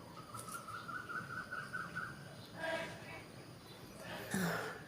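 A bird calling: a quick run of about eight short, clear notes, stepping slightly up in pitch. Two brief, louder, harsher sounds follow, the second near the end.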